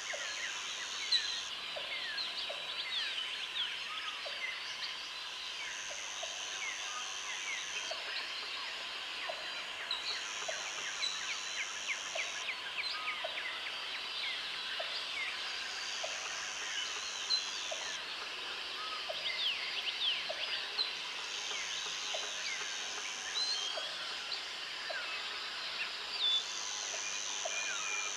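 Jungle ambience: many birds chirping and calling over one another, with a high insect buzz that sounds in spells of two to three seconds, coming back about every five seconds. A short low note repeats about once a second underneath.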